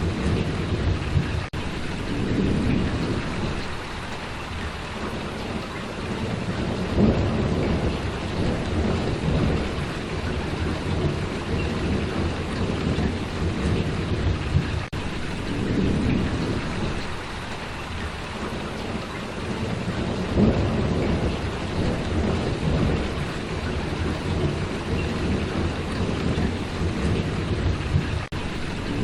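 Steady heavy rainfall, a dense even hiss with a deep rumble underneath that swells and eases every few seconds.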